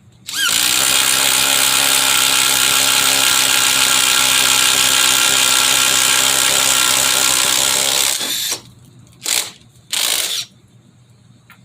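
Ridgid 18V brushless subcompact impact driver running at its single speed for about eight seconds, then two short bursts on the trigger.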